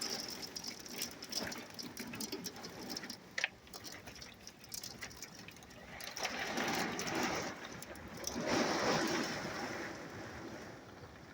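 Very heavy rain mixed with hail pelting down: a dense hiss of rain with many sharp ticks of hailstones striking, swelling louder twice in the second half.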